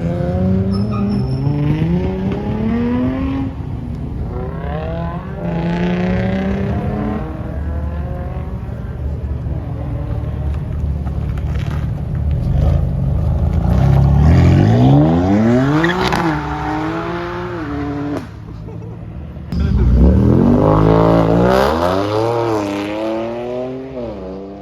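Car engine revving hard, its pitch climbing steeply and falling back several times, with two big climbs in the second half.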